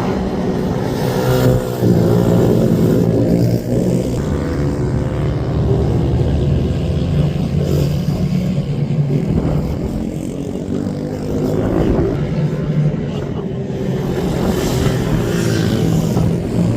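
Racing minibike engines revving hard, their pitch rising and falling as the bikes accelerate, shift and pass on track.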